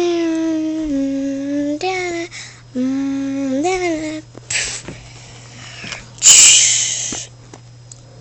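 A child's voice holding long wordless sung notes: one that steps down in pitch over the first two seconds, and another that rises and falls a little later. Then come two hissing bursts, the louder about six seconds in.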